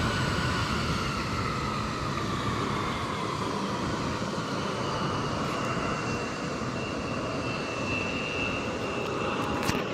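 Jet airliner's engines running as it taxis: a steady whining rush with a high whine held throughout and a lower tone that slowly sinks in pitch. The sound echoes off the surroundings.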